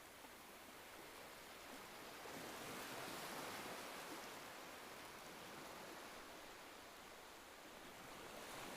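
Faint ocean surf: a soft, steady wash of waves that swells a little about two and a half seconds in and ebbs again.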